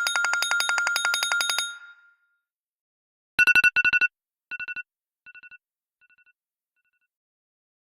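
Electronic phone ringtones: a fast trill on one high tone that stops a little under two seconds in. After a short gap comes a two-tone ring that repeats as an echo, each repeat quieter until it fades out.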